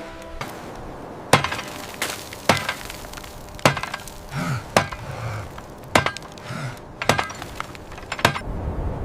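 A hand tool striking ice in a steady chopping rhythm, about eight sharp, ringing strikes roughly a second apart, with short effort grunts between some of them.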